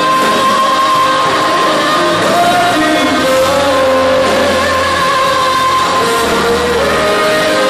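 Rock band playing live, amplified, with a voice holding long sung notes over the instruments.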